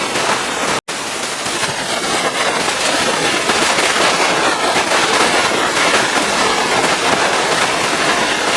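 Pressure washer spraying water, a loud steady hiss with a crackly edge. It cuts to silence for an instant just under a second in.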